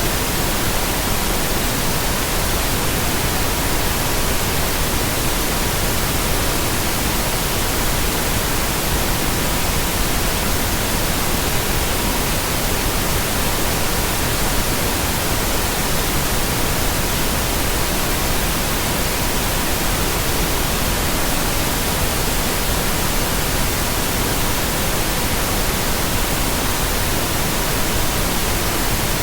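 Steady pink noise with a faint, steady pure tone at 963 Hz mixed in, unchanging throughout.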